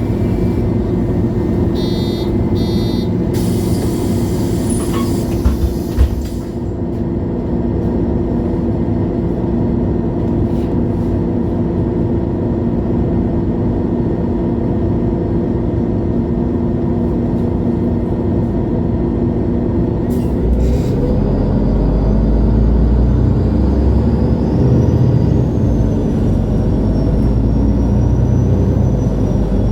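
MAN Lion's City G articulated bus heard from inside the cabin: the engine runs steadily at idle, with two short beeps a couple of seconds in and a pair of knocks near 6 s, after which the hiss dies down. About 20 seconds in the engine speeds up with a rising pitch as the bus pulls away.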